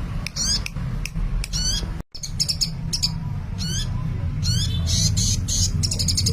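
Sunbird, the bird Indonesian keepers call kolibri, singing actively in repeated short, high twittering phrases that break into a fast high trill near the end, over a low steady hum. The sound drops out for an instant about two seconds in.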